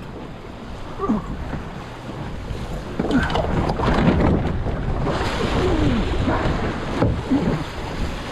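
Water splashing and gurgling along the hull of a small sailing dinghy under way, with wind buffeting the microphone. The water noise grows louder about three seconds in.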